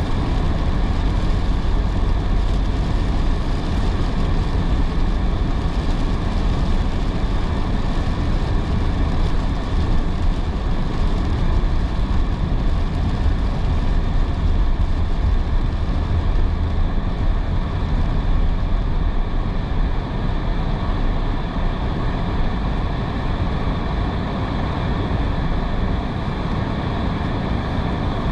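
Steady road noise of a car driving on a wet road in heavy rain: tyre hiss over a continuous low rumble.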